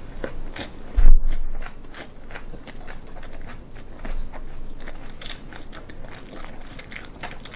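A person chewing and crunching a mouthful of raw mullet sashimi wrapped with raw garlic and green chili, with many small crisp crunches, and one dull thump about a second in.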